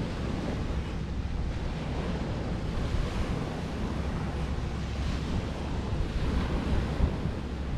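Wind buffeting the microphone over the steady wash of surf on a windy beach, with a continuous low rumble.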